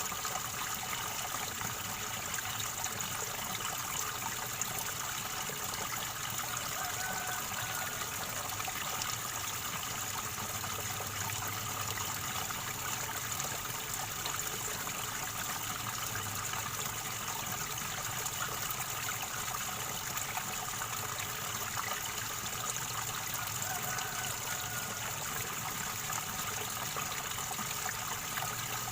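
River water gurgling and trickling in a steady, unbroken rush.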